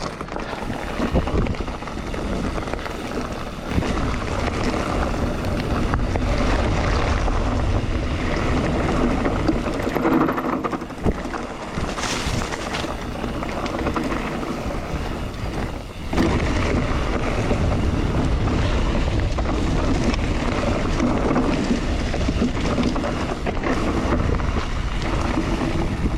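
Mountain bike riding fast along a trail: wind rushing over the microphone with the rumble and rattle of tyres and bike over the ground, louder from about sixteen seconds in.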